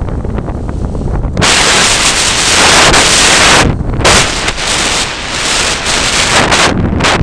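Strong, gusty wind buffeting the microphone: a constant low rumble broken by loud rushing gusts. The longest gust starts about a second and a half in and lasts about two seconds, and several shorter ones follow. The wind is about 11 m/s, gusting to 19 m/s.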